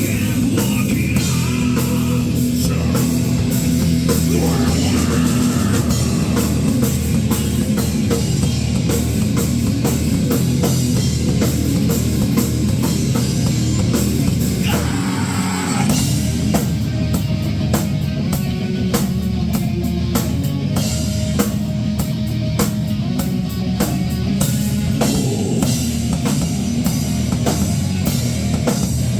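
Rock band playing live: a drum kit hit hard and steadily under electric guitar, with a brief change in the drumming about halfway through.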